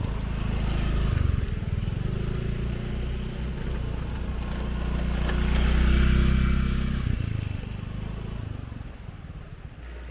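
An engine running steadily with a low hum and a hiss over it. It grows louder to about six seconds in, then dies away.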